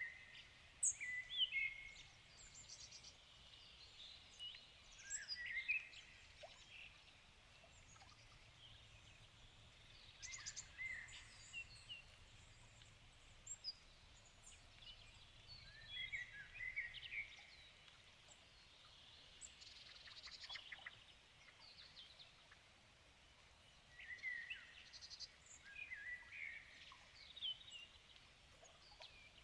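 Several songbirds singing, short whistled and chirping phrases coming in bursts every few seconds over a faint steady background hush.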